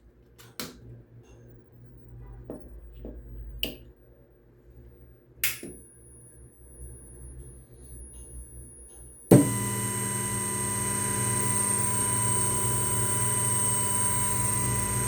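Sanyo Denki stepper motor running on an RTA Pavia X-Mind drive during a bench test. A few scattered clicks come first, then about nine seconds in the motor starts suddenly into a steady whine made of several pitched tones.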